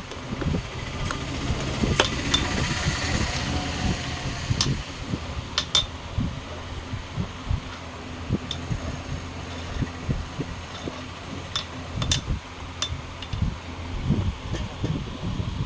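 A steady mechanical hum with irregular low thumps, and a few scattered sharp clicks and taps.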